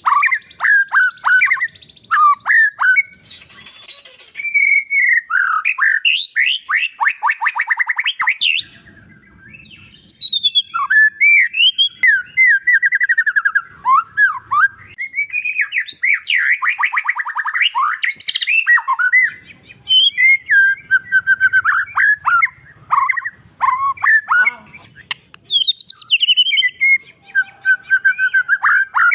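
White-rumped shama (murai batu) singing a loud, varied song: fast rattling trills, whistles sweeping up and down, and short sharp notes, in phrases broken by brief pauses.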